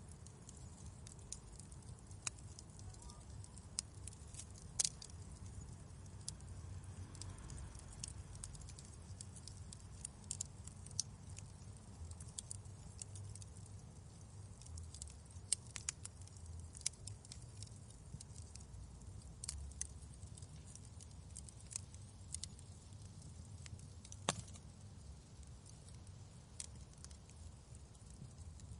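Wood fire in a fireplace crackling, with scattered sharp pops at an irregular pace over a low, steady rumble.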